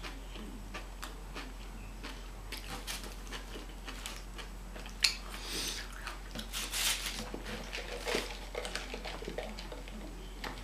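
A person chewing food, with wet mouth smacks, small clicks and crackly bursts coming and going, and one sharp click about five seconds in.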